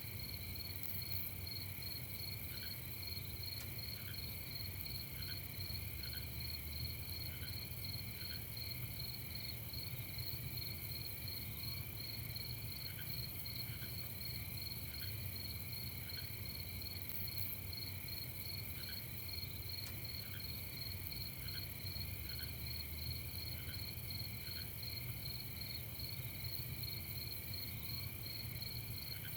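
A night chorus of crickets trilling steadily in several overlapping high pitches, with occasional single short chirps at a lower pitch scattered through it, over a faint low rumble.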